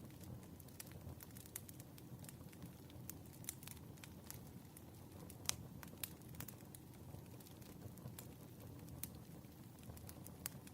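Faint wood fire crackling: irregular small pops and snaps over a steady low rush, with one sharper pop about halfway through.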